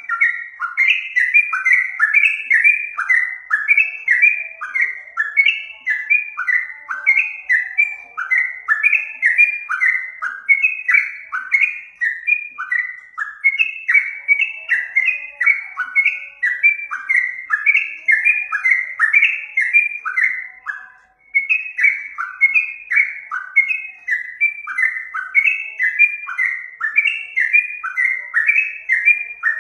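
Yellow-vented bulbul (trucuk) singing: a steady run of short falling whistled notes, several a second, with one brief break about 21 seconds in.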